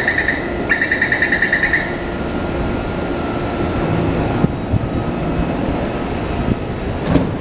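A rapid electronic beeping trills for about two seconds, then stops, over the steady rumbling noise of a running train.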